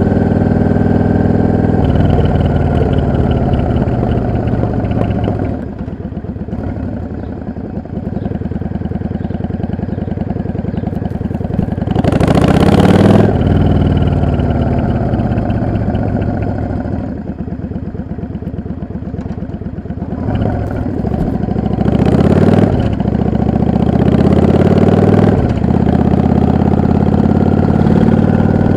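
Yamaha XVS 650 Dragstar bobber's air-cooled V-twin engine under way, its pitch climbing as it accelerates and falling as the throttle is eased off, several times over. Two brief loud rushes of noise cut in partway through and again later.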